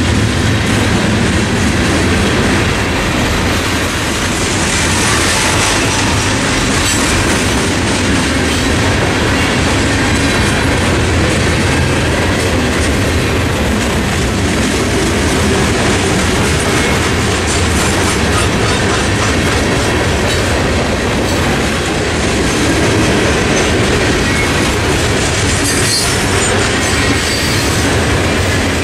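CSX coal train cars rolling steadily past, their wheels clattering rhythmically over the rail joints.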